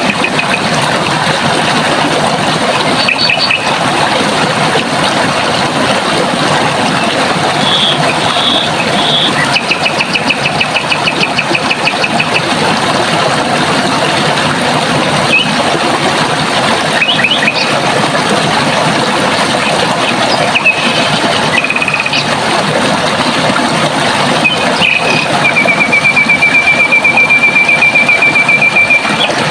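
Running water flowing steadily, with small birds calling over it: short high notes and rapid trills, the longest trill coming near the end and lasting about four seconds.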